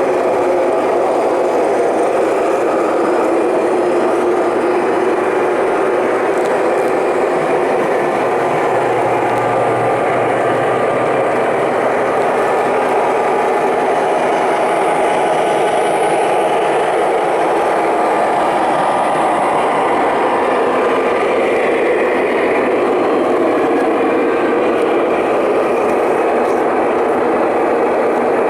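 O scale model train running steadily on the layout: a continuous rattle and whir of wheels on the rails and the locomotive's motor.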